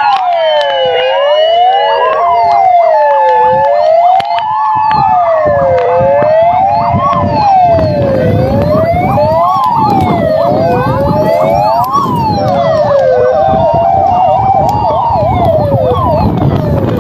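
Several fire engine sirens sounding together. The loudest wails up and down about every two and a half seconds, over other overlapping sweeps and steady tones. A rushing noise builds underneath from about six seconds in.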